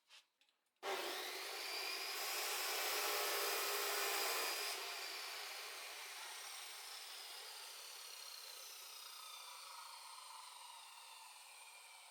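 A handheld electric power tool switched on, its motor whining up to speed with a rushing noise. After about four seconds it is switched off, and the whine falls slowly in pitch as it winds down.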